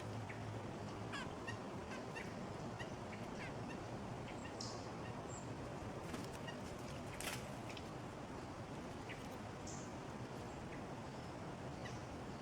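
Small songbirds giving short, scattered chip and call notes over a steady background hiss, with a sharp tap about seven seconds in.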